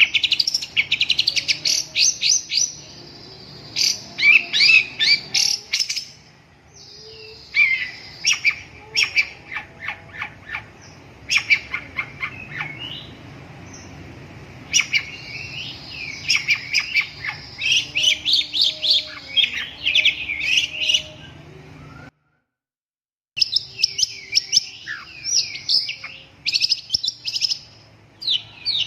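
Long-tailed shrike (cendet) singing: phrases of rapid, high chirps and trills in quick bursts, with short pauses between. About three-quarters through, the sound cuts out completely for about a second, then the song resumes.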